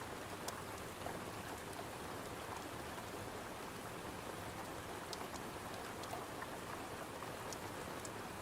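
Steady rain, with a few scattered sharp ticks.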